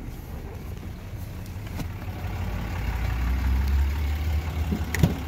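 6.7 Cummins turbo diesel idling, a steady low rumble that swells through the middle, with a single sharp click about five seconds in.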